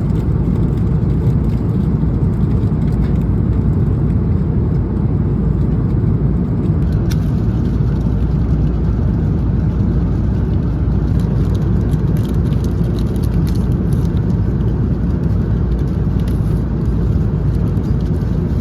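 Steady low rumble of an Airbus A330-300 heard from inside the economy cabin: engine and airflow noise with no change in level, and a faint click about seven seconds in.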